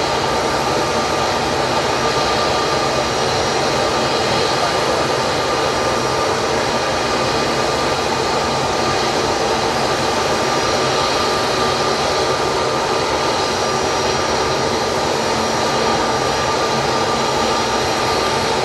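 Jet airliner engines running steadily: an even, loud rush with a steady high whine through it, holding level without rising or falling.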